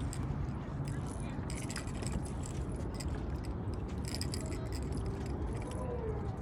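A steady low rumble with scattered light clinks and rattles, typical of fishing tackle being handled.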